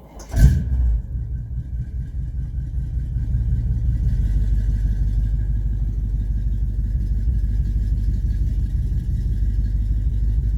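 A sharp knock about half a second in, then a truck engine running steadily, growing a little louder over the first few seconds as the tow truck gets ready to take up the chain on the stalled fire truck.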